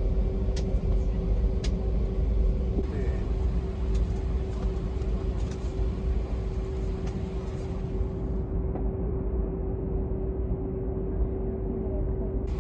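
Airbus A319 cabin noise: a steady low rumble with a constant droning hum, and a few faint clicks in the first couple of seconds.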